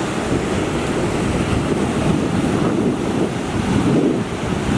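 Heavy storm surf breaking and washing up the beach as a typhoon approaches, with strong wind buffeting the microphone. The surf swells louder about four seconds in.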